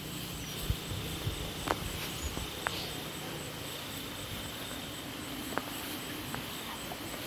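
Night-time field ambience: crickets chirring steadily, with low wind rumble on the microphone and a few sharp light clicks, most of them in the first three seconds.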